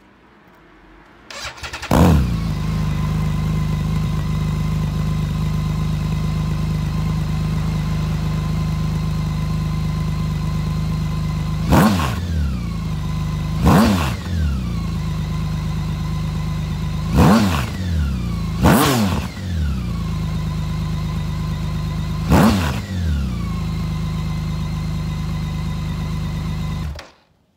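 BMW K1600GTE inline-six engine breathing through bespoke MTC aftermarket exhausts: it starts, settles into a steady idle, is blipped on the throttle five times, and is switched off near the end.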